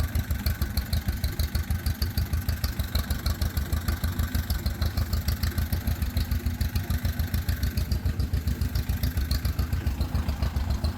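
A tractor engine idling close by, a steady, even pulsing beat.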